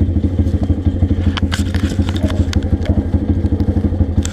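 Pit bike engine idling with a steady, even putter. A few sharp clicks and knocks sound over it, a cluster about a second and a half in and another near the end.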